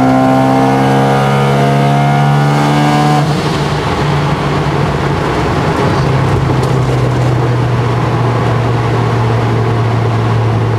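Mazda RX-7 FD3S's single-turbo 13B twin-rotor rotary engine heard from the cockpit, its note climbing slowly under load. About three seconds in, the note drops abruptly, and the engine settles into a steady drone mixed with road and wind noise.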